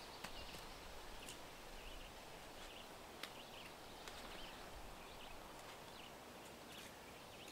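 Faint woodland ambience with small birds chirping now and then, and a few light clicks.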